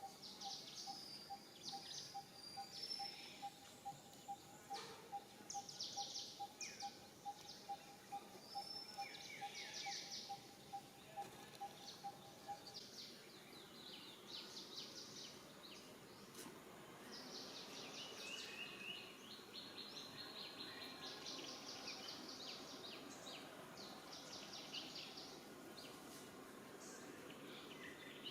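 Birds chirping and trilling, faint. A steady run of quick, evenly repeated piping notes goes on for the first half and stops about 13 seconds in.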